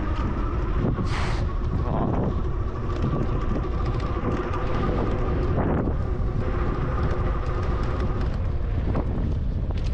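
Wind buffeting the microphone while riding a bicycle: a constant low rumble, with a steady thin whine underneath and a short hiss about a second in.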